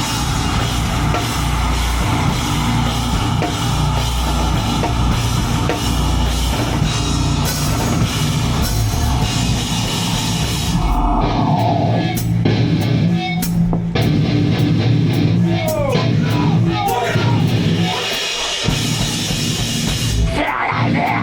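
Live heavy band playing loud: distorted guitars, bass and a drum kit with crashing cymbals. About halfway through the cymbal wash drops away, leaving heavy low-end riffing with sliding guitar notes.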